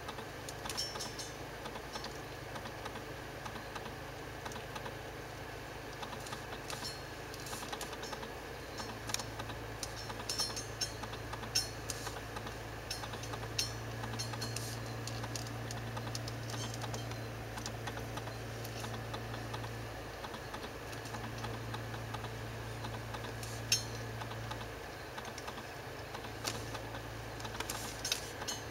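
Vehicle engine running at a crawl, heard from inside the cabin as a low hum that rises and falls with the throttle, with scattered light clicks and ticks over it.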